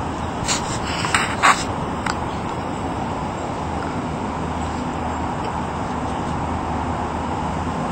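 Steady outdoor background noise, like distant road traffic, with a few short, sharp sounds between about half a second and two seconds in.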